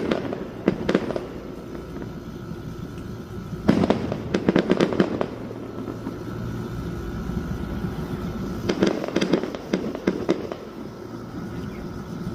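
Fireworks bursting in quick clusters of bangs and crackles: three volleys, each lasting a second or so, roughly four to five seconds apart, echoing after each bang.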